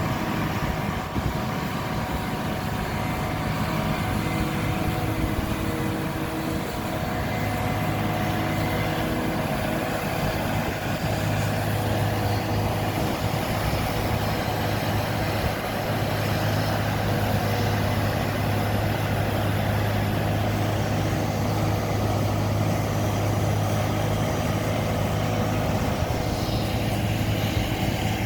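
Excavator's diesel engine running steadily, a little louder from about the middle on.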